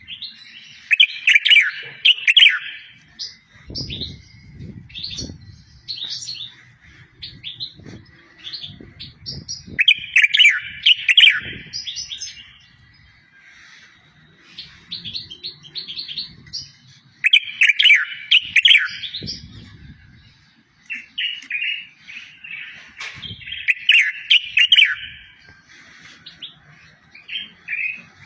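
A songbird singing a tutor song for teaching goldfinches and canaries: a loud, fast trilled phrase that comes back about every seven to eight seconds, with shorter chirps and notes between the phrases. A few dull low thumps are heard under the song.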